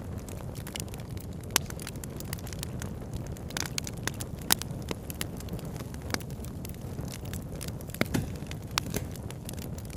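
Campfire crackling, with sharp pops scattered irregularly through it, over a steady low rush of flowing river water.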